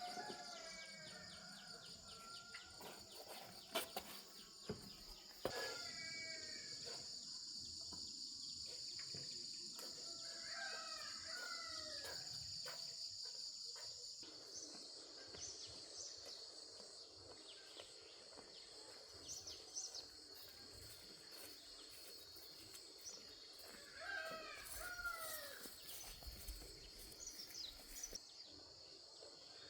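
Faint outdoor ambience of insects keeping up a steady high-pitched buzz, with short bird chirps now and then, and a few sharp clicks in the first several seconds.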